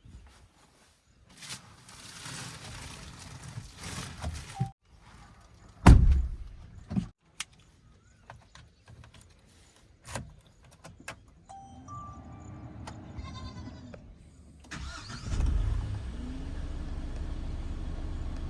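Diesel engines of heavy vehicles running, heard in short stretches that cut in and out abruptly. There is a loud thump about six seconds in, and the engine sound grows louder near the end.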